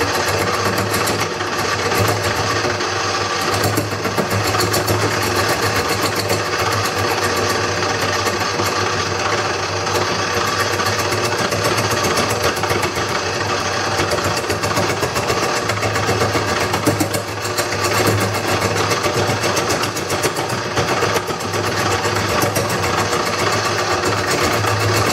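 Wood lathe running steadily with a low hum, a turning tool scraping and cutting the spinning bowl blank.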